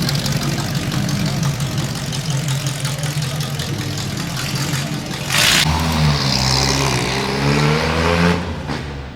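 Car engine running steadily, then about halfway through a short hiss, after which the engine revs up louder with its pitch rising as the car pulls away.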